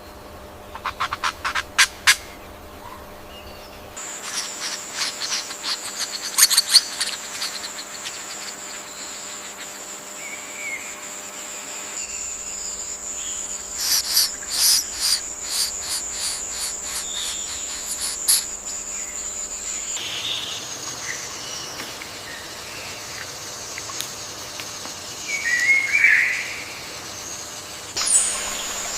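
Rainforest ambience of birds chirping and calling. Rapid runs of short chirps sound near the start and again around the middle, over a steady high-pitched insect whine, and a few softer calls come near the end. The background changes abruptly every eight seconds or so.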